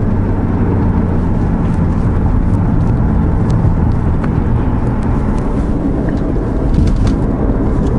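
Ford Focus ST's turbocharged four-cylinder engine and tyres running steadily, heard from inside the cabin as a low rumble with a few light ticks. No clunk comes from the rear suspension, which now sounds quiet with its new sway bar fitted.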